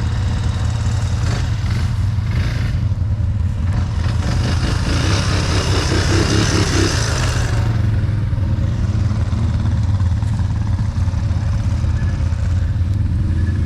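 ATV engine running steadily as it works through mud. For about three seconds in the middle there is a louder, hissing rush.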